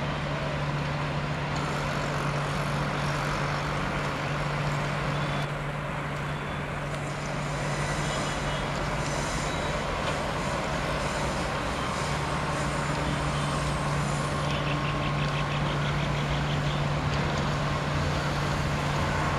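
A train running past, with broad running noise and a steady low hum.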